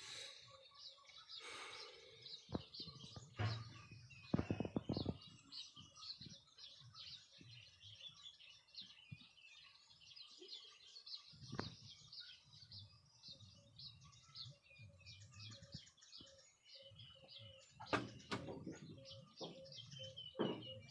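Small birds chirping continuously, a dense run of short high notes, with a few scattered low thumps and knocks.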